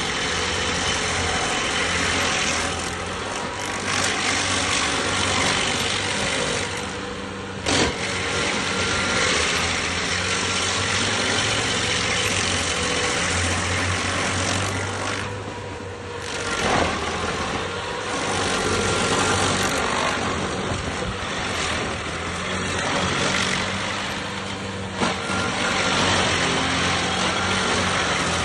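Stump grinder's engine running steadily while its cutter wheel grinds into a tree stump, a dense hiss of chewing wood over the engine hum. The grinding eases off briefly several times, and a few sharp knocks come through.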